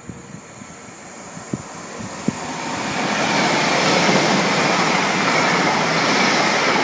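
TransPennine Express passenger train coming through the station, its rail noise growing louder over about three seconds and then running loud and steady as it passes, with a faint whine on top. A couple of sharp clicks sound as it nears.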